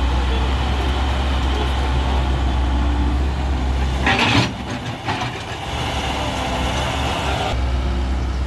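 Diesel engine of a Hyundai Robex wheeled excavator running with a steady low hum. A brief loud noisy burst comes about four seconds in, after which the deepest part of the hum drops away for about three seconds and then returns.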